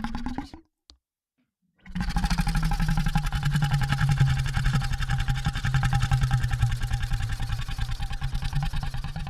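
Monster vocal sound effect: one call cuts off about half a second in, and after a second of silence a long, low, steady growl with a fast rattling pulse starts about two seconds in.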